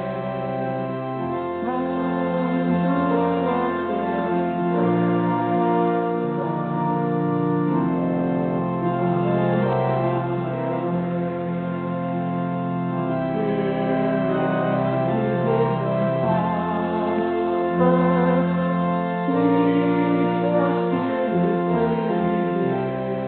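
Church organ playing a hymn in sustained chords that change every second or two.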